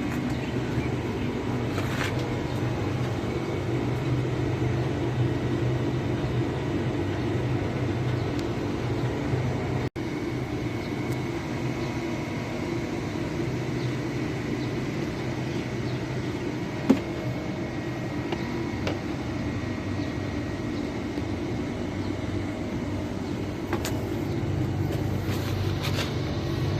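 Steady low mechanical hum and rumble, with a brief dropout about ten seconds in and a single sharp click about seventeen seconds in.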